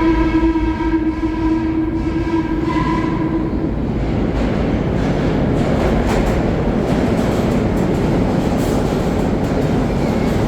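A train horn sounds one steady tone for about three and a half seconds. Then the rumble and clatter of the train running over the rails grows louder and carries on.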